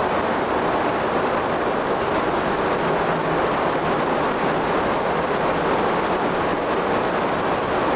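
Steady rushing of a stream, an even whooshing noise that holds the same level throughout.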